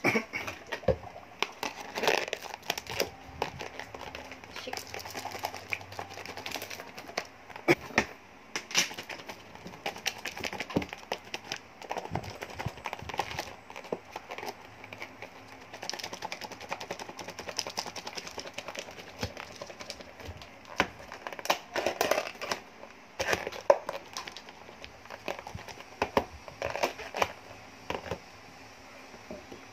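Irregular crinkling, rustling and light clicks of food and packaging being handled as a meal is plated.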